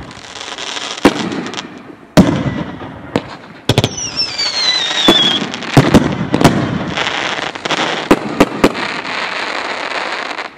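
Consumer firework cakes firing: a run of sharp, loud shots and booming breaks over a steady crackling hiss. About four seconds in, a whistling tail sounds as a whistle falling in pitch.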